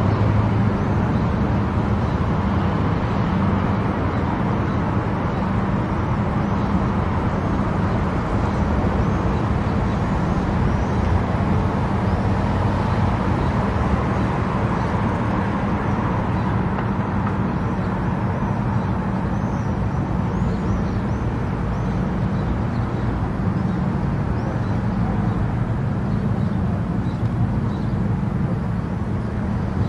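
Car travelling at highway speed: a steady drone of tyre and engine noise that holds even throughout.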